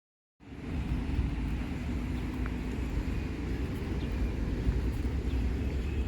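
Steady low outdoor rumble cutting in suddenly under half a second in, after silence.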